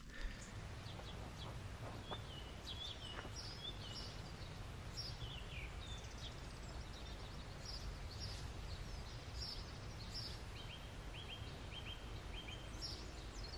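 Small birds chirping in short, scattered high calls, with a run of quick repeated notes near the end, over a faint steady low wind rumble.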